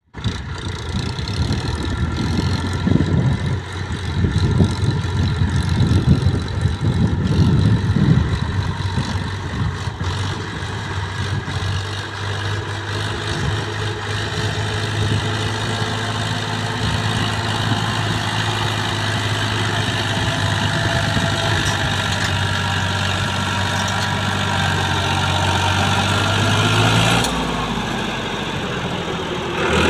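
Diesel tractor engines running, with uneven low rumbling surges in the first several seconds, then a steady engine drone. The sound changes abruptly a few seconds before the end.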